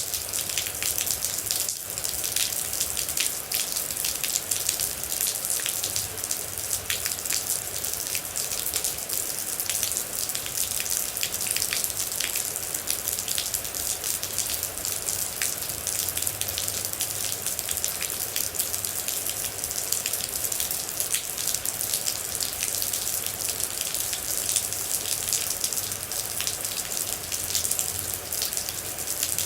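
Steady rain with water droplets hitting a surface: a continuous hiss dotted with many small, sharp drop ticks.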